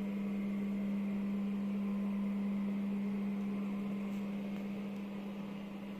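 A steady low hum on one unchanging pitch, with a faint even hiss of room noise.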